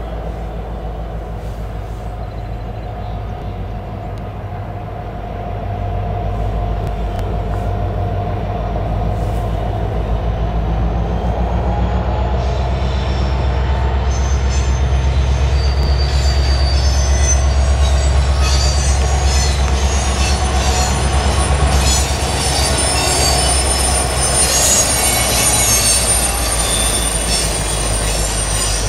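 Canadian National SD70M-2 diesel locomotive moving with its train. The engine's low drone grows louder about six seconds in and is strongest past the middle. From about halfway through, high-pitched wheel squeal from the cars joins it.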